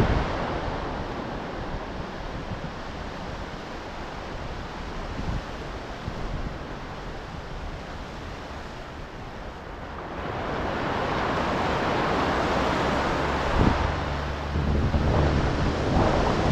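Ocean waves breaking and washing up the shore. A quieter wash of surf gives way, about ten seconds in, to a louder wave surging in, with wind buffeting the microphone near the end.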